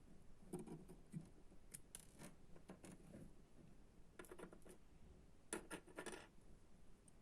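Faint, scattered clicks and short scrapes of small parts and hand tools being handled while an electronics kit is put together, in clusters about four seconds in and again near six seconds.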